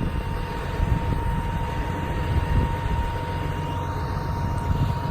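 A 6.7-litre Cummins turbo-diesel running steadily with the PTO engaged, driving the bucket truck's hydraulics while the boom is raised. It makes a steady low rumble with a thin, constant whine over it.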